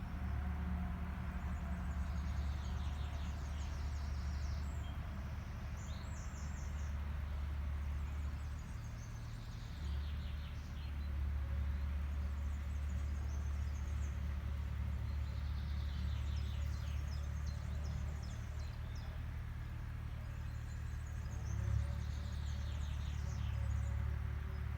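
An agricultural machine's engine running with a steady low drone that dips briefly and swells again. Birds sing short, rapid trills over it every few seconds.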